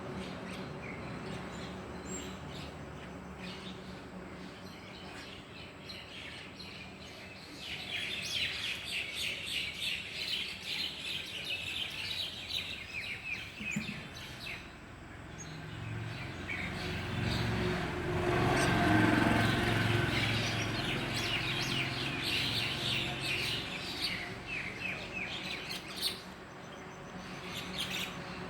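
Many birds chirping at once in quick, overlapping calls, thickening about a quarter of the way in. A low rumble swells up in the middle and then fades.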